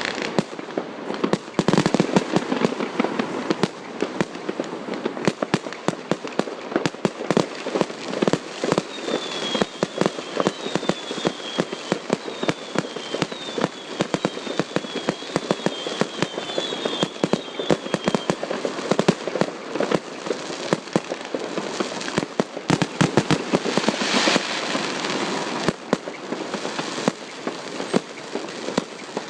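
Fireworks going off in a dense, continuous barrage of cracks and bangs, with a run of short, high, falling whistles midway.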